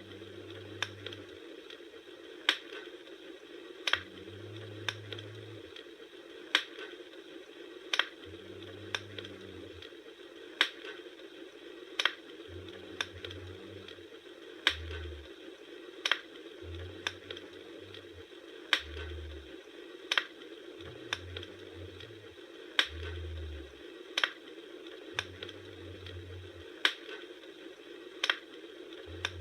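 Wood fire crackling: sharp pops and snaps about once a second over a steady low rush of burning.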